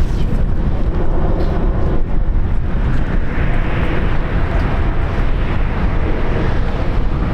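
Steady jet-engine rumble from the Airbus Beluga XL A330-700L's two Rolls-Royce Trent 700 engines as it departs.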